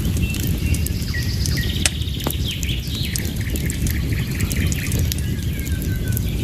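Fire crackling in a fireplace with a steady low rumble, while birds chirp now and then.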